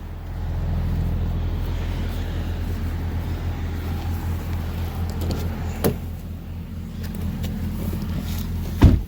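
A 2019 Audi S5 Sportback's turbocharged V6 starting up and idling with a steady low rumble. There is a sharp click about six seconds in and a louder thump near the end.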